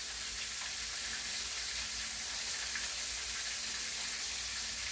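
Cornmeal-coated catfish nuggets pan-frying in shallow oil in a skillet, giving a steady sizzle.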